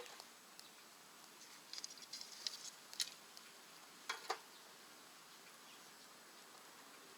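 Wood fire in a rocket stove crackling faintly: a cluster of small pops and snaps between about one and a half and four and a half seconds in, the sharpest about three seconds in and just after four.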